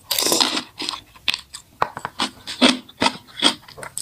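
A mouthful of cabbage kimchi taken off a fork, then chewed close to the microphone in short repeated chews, about three a second.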